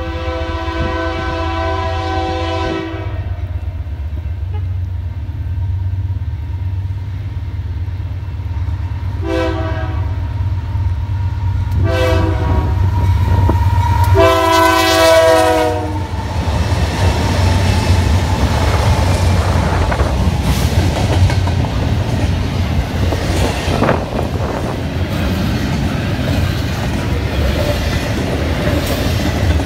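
A BNSF freight locomotive's air horn sounding four blasts, the first and last long: the grade-crossing signal. After the last blast the lead GE C44-9W diesels and a string of double-stack container cars rumble past close by, with steady wheel clickety-clack on the rail joints.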